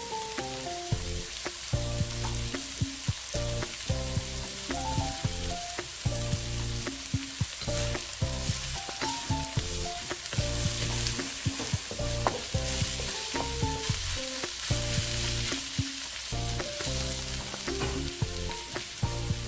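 Chopped fried milkfish, onion and red bell pepper sizzling in a steel wok, stirred with a wooden spatula that scrapes and clicks against the pan, over soft background music.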